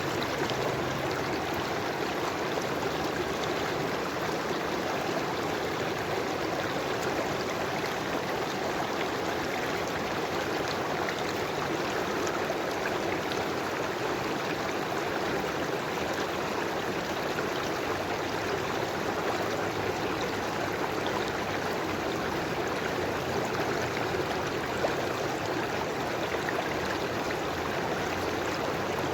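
River water flowing steadily over stones, an even rushing babble with small splashes and trickles.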